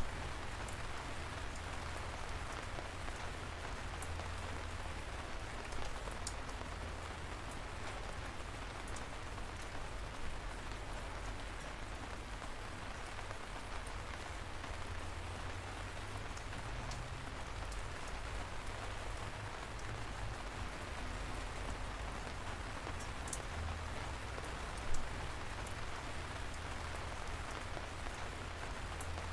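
Steady light rain falling, with a few louder single drops ticking now and then and a low rumble underneath.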